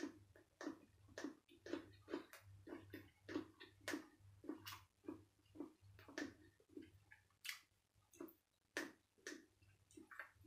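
A person chewing food with the mouth close to the microphone: soft, wet mouth sounds about twice a second.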